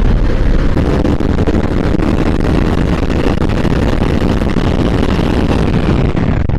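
Bajaj Pulsar NS200's single-cylinder engine and exhaust running steadily under way at a fairly constant speed.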